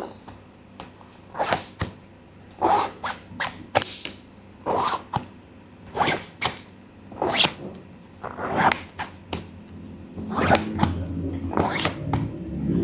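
A series of short rasping strokes on a sneaker, about one a second, from the shoe being scrubbed or handled during cleaning.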